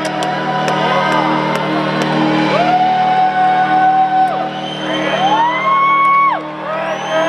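Concert crowd screaming and whooping in long held cries over steady music from the sound system; one scream rises about five seconds in and breaks off a second later.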